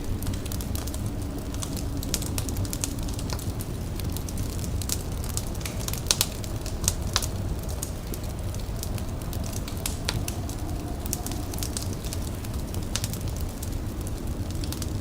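Wood fire crackling: irregular sharp pops and snaps over a steady low rumble, with a couple of louder pops about six and seven seconds in.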